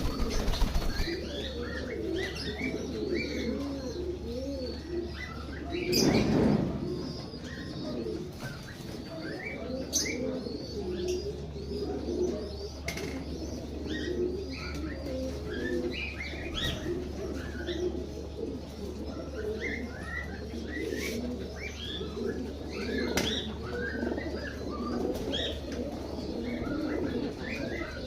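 A flock of fancy pigeons cooing continuously, with higher chirping calls mixed in. There is a loud flurry of wing flapping about six seconds in, and a few sharp clicks.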